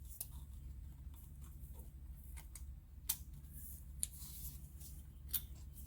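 Faint, scattered light clicks of piston rings being handled and tried in the grooves of a two-stroke piston, over a low steady hum.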